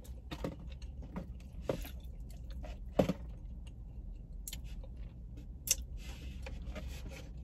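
Close-up eating sounds: chewing and mouth smacks on barbecue rib meat, with scattered soft clicks and a brief rustle, over a steady low hum.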